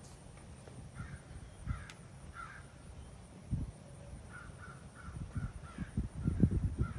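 A bird calling outdoors: a few separate calls, then a quick run of short repeated notes from about halfway through. Low, uneven thumps and rumble run underneath and grow louder near the end.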